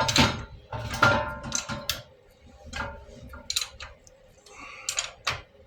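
Irregular metallic clicks and clanks of hand tools working on the bolts of a small engine's exhaust manifold as it is being removed.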